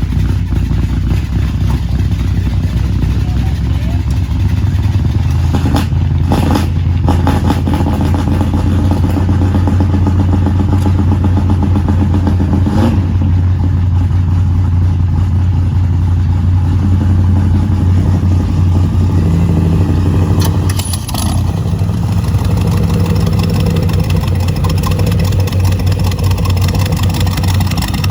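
A car engine running with a loud, steady low rumble that dips briefly about two-thirds of the way through, with a few sharp knocks along the way.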